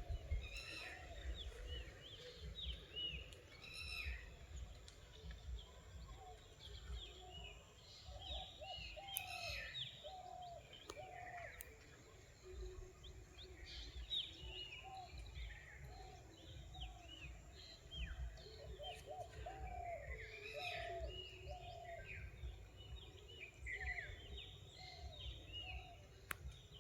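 Several wild birds calling together: many short, high chirps and quick down-slurred notes, with lower repeated calls among them, over a faint low rumble.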